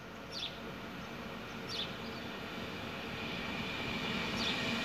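ÖBB Railjet passenger train approaching the station, its running noise growing steadily louder, with a few brief high squeaks.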